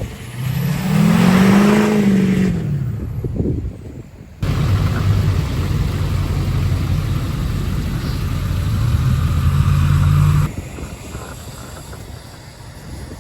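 Truck engine revving, its pitch rising and falling back over a couple of seconds. After an abrupt break it runs steadily with a few stepwise changes in pitch, then cuts to a quieter low rumble near the end.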